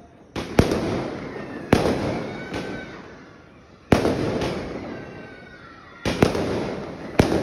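Multi-shot aerial fireworks (sky shots) firing. Sharp bangs come every one to two seconds, each followed by a fading crackle, with two bangs close together about half a second in.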